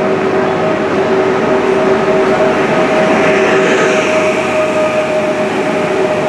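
Train running: a loud steady noise with two steady humming tones, the lower of which drops away near the end.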